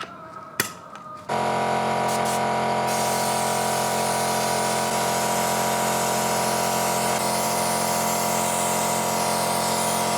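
A couple of sharp knocks, then a power tool switches on about a second in and runs steadily at full speed: a whining motor over a wide hiss.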